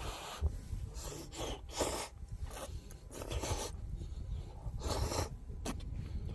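Campfire burning, with irregular short bursts of crackling and hissing over a steady low rumble.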